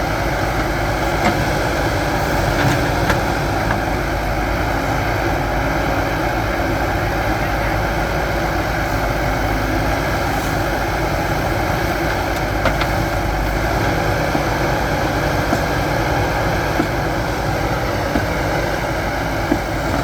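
Heavy machinery's diesel engine running steadily, with a few faint clicks and knocks.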